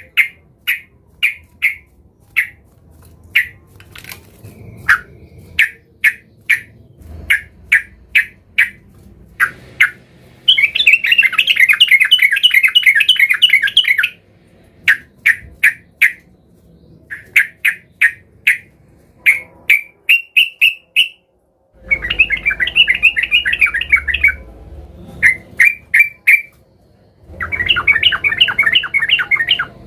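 Yellow-vented bulbul (trucukan) singing: a run of short, separate chirps, broken three times by longer bouts of fast chattering, near the middle and twice towards the end.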